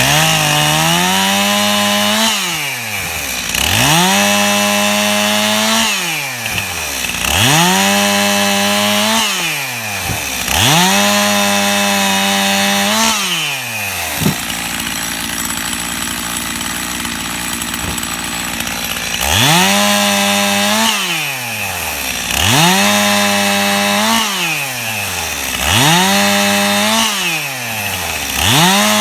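Stihl two-stroke chainsaw revved for a series of short cuts through limb wood: the engine climbs to full speed, holds for about two seconds, then drops back, about every three seconds, seven times. Midway it sits at a lower steady speed for a few seconds before the cuts resume.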